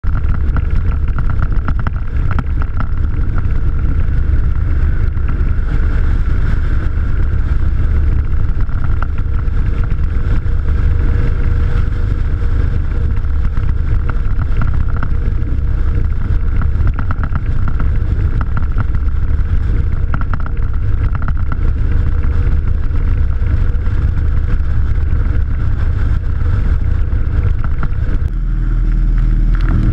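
Steady, loud low rumble of a bike ride, with wind on the microphone, changing in character near the end.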